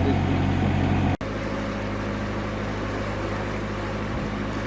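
Narrowboat's diesel engine running steadily while the boat is manoeuvred. There is a brief sudden drop-out about a second in, after which the engine runs on a little quieter.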